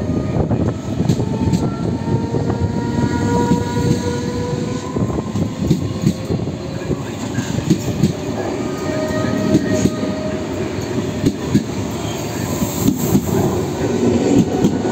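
Italo AGV (ETR 575) high-speed electric train moving along the platform: a steady rumble of wheels on rail, with clicks over the rail joints. A few thin whines drift slowly in pitch.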